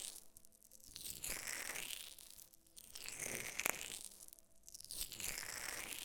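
Close-up rustling and scraping noise in slow swells, one about every two seconds, each rising and fading, with a single sharp click about two-thirds of the way through.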